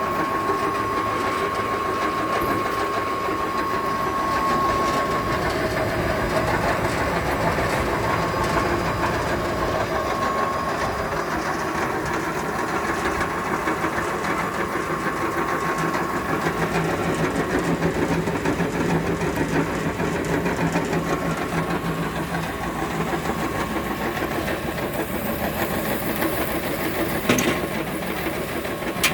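Screw extruder press for Pini Kay fuel briquettes running steadily: a continuous mechanical drone with a steady whine, and one sharp knock near the end.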